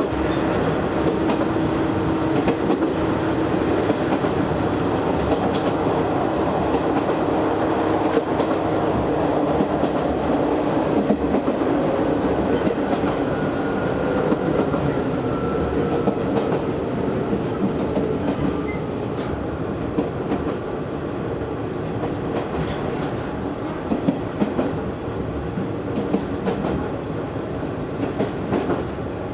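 Izu Hakone Railway Series 3000 electric train heard from inside the car while running, its wheels clicking over rail joints under a continuous rolling rumble. A steady hum in the first several seconds fades away, and the noise eases slightly in the second half.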